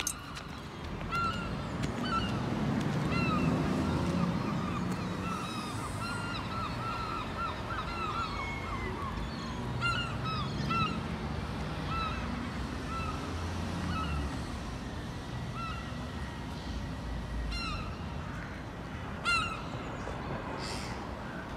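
Birds calling over and over outdoors, short harsh calls that come singly and in quick runs, over a low steady background rumble.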